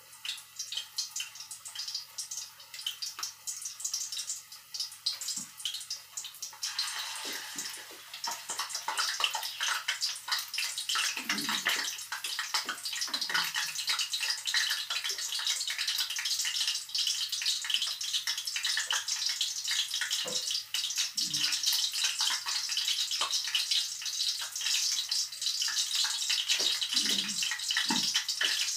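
Minced pork and shrimp patties frying in shallow hot oil in a pan: a steady sizzle full of small crackles, which grows louder and denser about seven seconds in.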